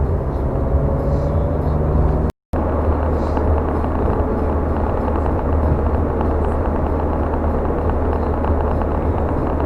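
Car driving along a road, heard from inside the cabin: a steady engine hum and tyre and road noise. The sound cuts out completely for a moment about two and a half seconds in.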